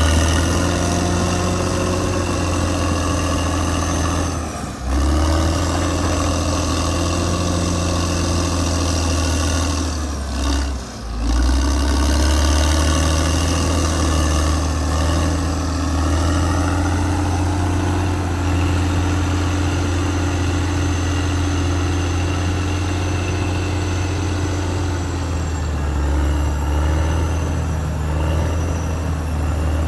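Caterpillar D6R XL bulldozer's diesel engine running steadily under work, a deep hum with higher whining tones over it, dipping briefly twice, about five and eleven seconds in.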